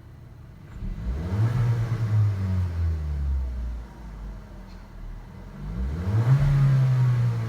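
Hyundai Kona engine revved twice: each time the pitch climbs quickly, holds high for a second or two, then falls back toward idle.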